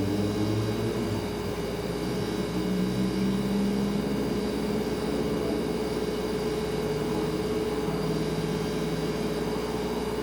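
Refrigerator running with a steady hum: one constant tone over a low drone and faint hiss, with lower tones that shift a little every second or two.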